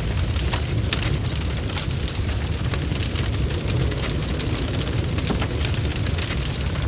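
Wood fire crackling, with frequent sharp pops and snaps over a steady low rumble of burning flames.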